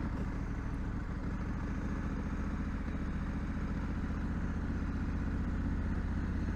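2020 Honda Africa Twin DCT's 1084 cc parallel-twin engine running steadily at low revs, an even low engine note with no revving.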